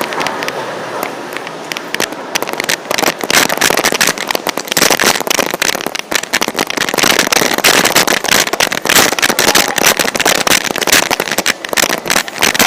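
Dense crackling and knocking of a camera microphone jostled by someone running, mixed with running footsteps; it grows busier after the first couple of seconds.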